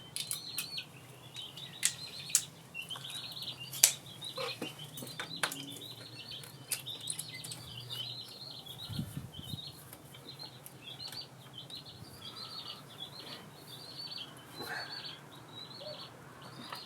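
A bird chirping over and over in the background, with a few sharp knocks about two and four seconds in.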